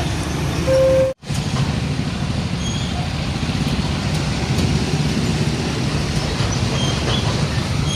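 Heavy road traffic with large diesel trucks passing: a steady low engine rumble and road noise. About a second in, a brief single-pitched beep sounds, followed by a sudden split-second cut to silence before the traffic noise resumes.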